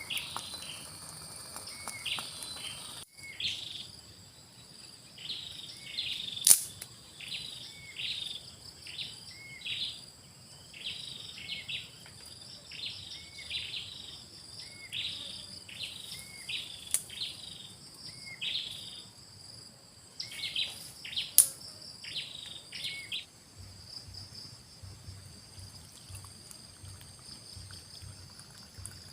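A bird calling over and over, a short note about once a second, above a steady high-pitched insect drone. The calls stop near the end, and a few sharp clicks are heard along the way.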